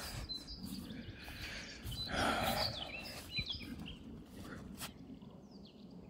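Small birds chirping and calling in the background, several short chirps and quick slides, over a low rustle. A brief, louder, soft breathy sound comes about two seconds in.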